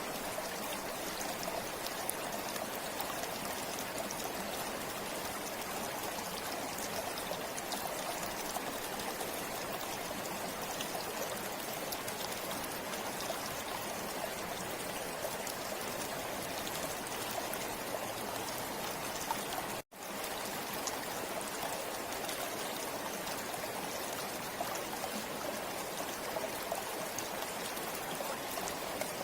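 River water flowing, a steady even rush. It cuts out completely for a split second about two-thirds of the way through, then resumes.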